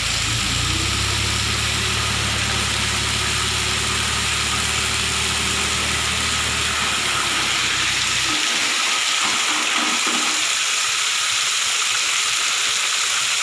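Dump truck engine idling with a steady low hum that cuts off abruptly about eight seconds in, under a steady rushing hiss that continues throughout.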